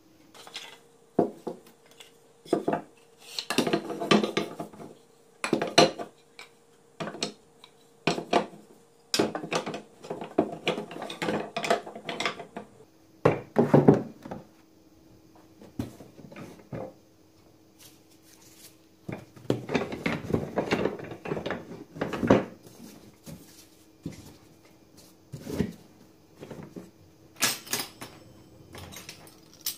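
Dishes and cutlery clinking and clattering as they are handled and set down, in many separate knocks and short runs, with a faint steady hum underneath.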